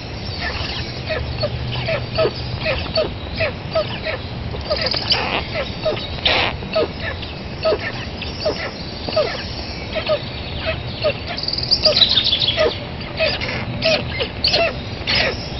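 Birds calling: many short chirps in quick succession.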